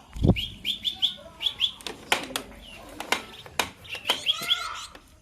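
A tame pipit, a small finch-like bird, chirping in quick runs of short, high chirps, one run at the start and another about four seconds in. Sharp clicks and a low thump just after the start come in between.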